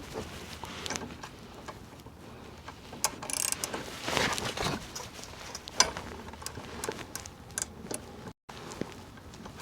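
Hand tools working on a motorcycle's front wheel and brake parts: scattered metal clicks and scrapes, with a short scraping stretch around the middle and a sharp click about six seconds in.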